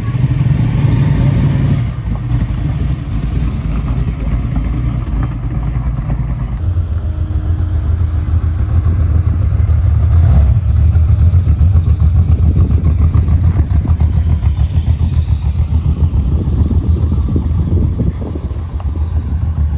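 Car engine running with a loud, rapid, even exhaust pulse. The sound changes abruptly about six and a half seconds in.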